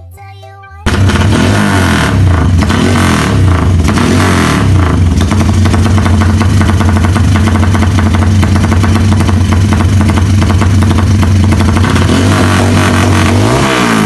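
Motorcycle running through a loud aftermarket 'helicopter' exhaust. It cuts in abruptly about a second in at a steady, deep, choppy note and blips up briefly in pitch near the end.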